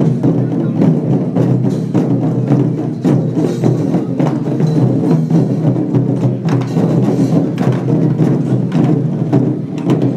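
Lion-dance percussion band playing: drum, gongs and cymbals struck in a dense, continuous rhythm, with the metal ringing on underneath the strokes.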